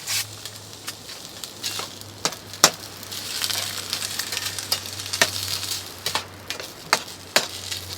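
Ground beef and sloppy-joe sauce sizzling in a frying pan while a utensil stirs and spreads it, scraping and knocking sharply against the pan a dozen or so times. The sizzle swells in the middle.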